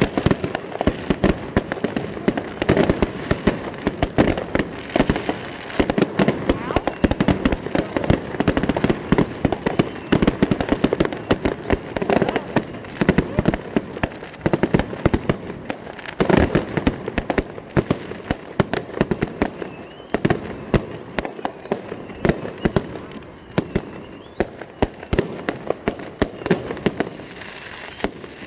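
Fireworks display going off: a dense, continuous run of bangs and crackles from bursting shells, with voices in the background.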